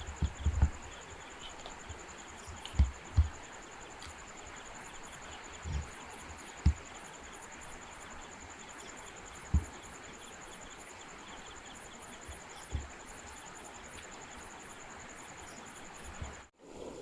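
Night insects, crickets among them, calling steadily in a fast, high-pitched trill, with a second chirping call in short repeated groups above it. A few short low thumps come through at scattered moments.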